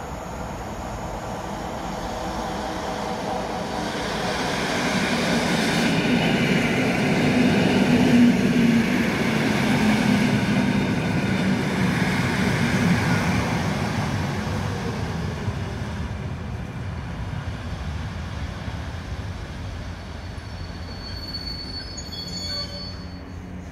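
EN57 electric multiple unit passing at speed: the rumble of its wheels on the rails and its traction motors swells to the loudest point as it goes by, then fades as it draws away. A brief high squeal sounds near the end.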